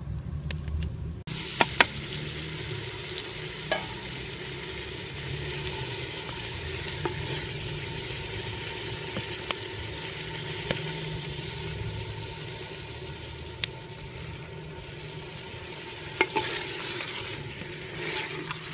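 Potato and cauliflower pieces sizzling in an earthenware cooking pot as a spoon stirs them. A steady hiss comes in about a second in, and a few sharp clicks of the spoon against the pot are heard through it.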